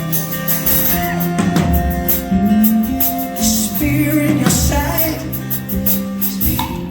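Live rock band playing an instrumental stretch between sung lines: sustained guitar and bass notes over a drum kit keeping time on the cymbals.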